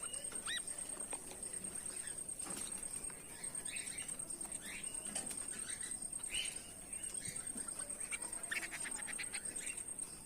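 Goldfinches giving short chirps and twittering calls, with a quick run of about eight ticking notes near the end. A steady high-pitched whine runs underneath.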